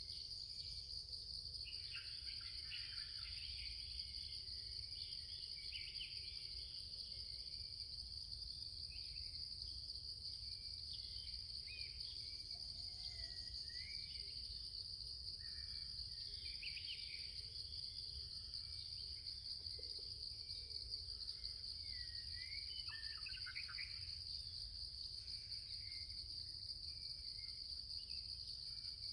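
Steady high-pitched insect drone, with many short bird calls scattered throughout.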